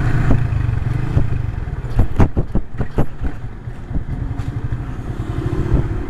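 Yamaha New Vixion Lightning's single-cylinder engine running while riding, under a steady low rumble of wind on the microphone. A quick cluster of sharp knocks comes about two to three seconds in.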